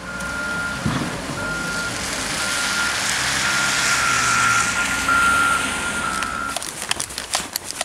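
A heavy vehicle's reversing alarm beeping on one pitch about once a second, over engine noise and a steady hiss. The beeping stops near the end, and a few sharp clicks follow.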